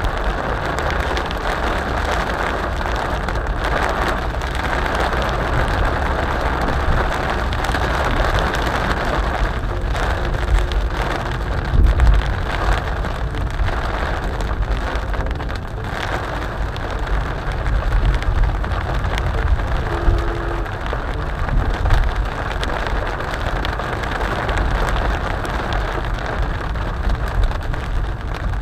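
Steady rain pattering on a moving car's roof and windshield, heard from inside the cabin, over a low rumble of tyres on the wet road.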